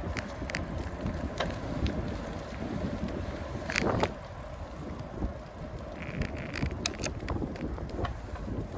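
Wind buffeting the microphone and road rumble while riding a bicycle, with scattered light clicks and rattles and a brief louder rush about four seconds in.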